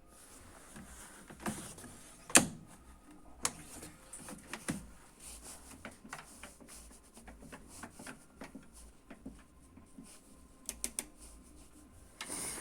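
Irregular sharp clicks and knocks of objects being handled, the loudest single click about two and a half seconds in, with a quick cluster of clicks near the end.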